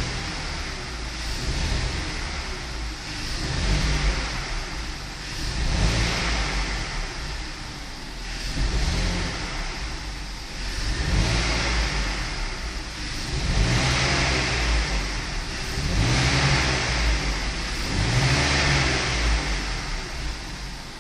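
BMW M54 2.2-litre inline-six engine being blipped repeatedly, rising and falling in revs about every two to three seconds, eight or so times. The owner reports that this engine stumbles when accelerating between about 600 and 1000 rpm and suspects an intake air leak or a faulty idle air control valve.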